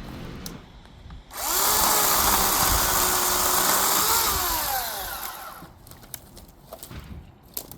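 Chainsaw revved up suddenly, held at full speed for about three seconds while cutting wood, then let off so the pitch falls and the sound dies away. A few light knocks and clicks follow.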